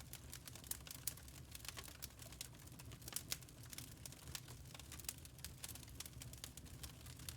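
Wood fire crackling in a fireplace: irregular small pops and snaps over a low steady rumble of the burning fire.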